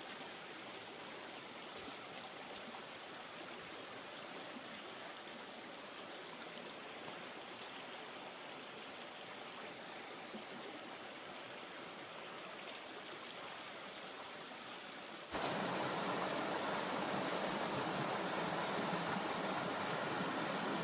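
Stream water running steadily, with a thin steady high-pitched whine above it. About 15 seconds in, the rushing becomes suddenly louder and fuller.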